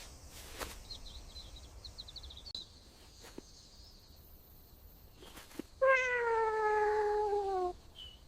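A domestic cat gives one long meow, a little under two seconds, sliding slightly down in pitch, near the end.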